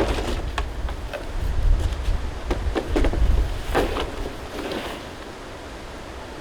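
Strong wind buffeting the microphone in gusts, easing off near the end, with a scattering of sharp clicks and rustles.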